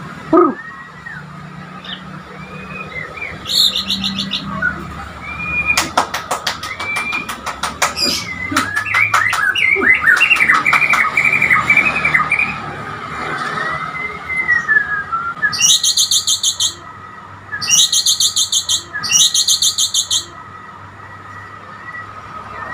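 Caged murai borneo (Bornean white-rumped shama) singing: varied whistled phrases gliding up and down, with a quick clicking rattle partway through. Several short, harsh, high buzzing bursts come in bunches near the end, over a steady thin high tone.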